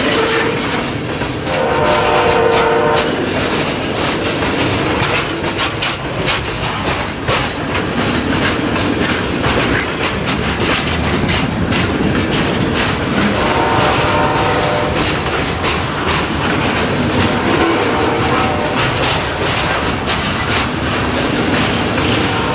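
Loaded covered hopper cars rolling past close by, with a steady rumble and a rapid clatter of wheels over rail joints. A horn sounds briefly twice, once about two seconds in and again about two-thirds of the way through.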